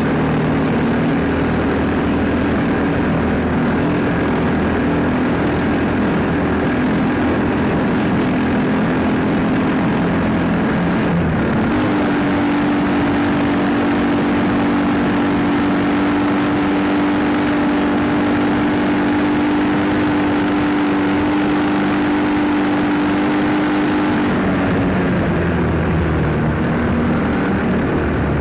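Dirt bike engine running steadily at speed, with a rush of noise over it. Its pitch steps up about twelve seconds in, holds, and drops back down past the middle.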